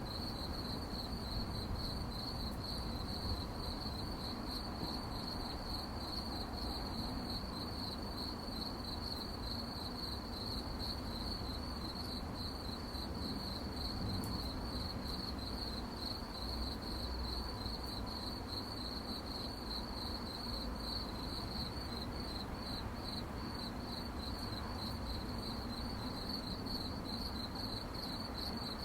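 Crickets chirping at night in a continuous, evenly pulsing high-pitched chorus, over a faint low background rumble.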